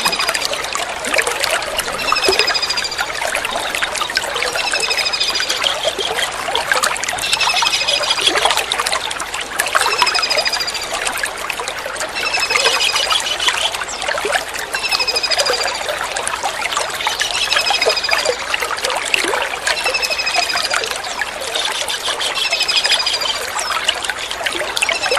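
Kingfisher calls: short, high, downward-sliding notes repeated about every two and a half seconds, over a steady trickle of running water from a water-therapy track.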